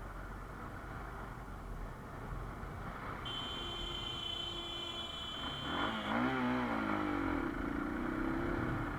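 Kawasaki KLR 650's single-cylinder engine running under a steady rumble of riding noise; about six seconds in its note dips and then climbs as the revs change, then holds. A steady high-pitched tone sounds for about three seconds in the middle.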